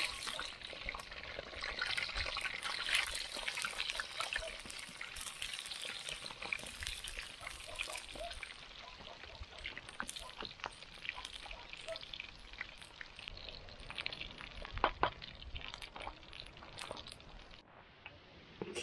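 Potatoes frying in hot oil, a steady sizzle with scattered small pops and crackles, slowly fading and cutting off abruptly shortly before the end.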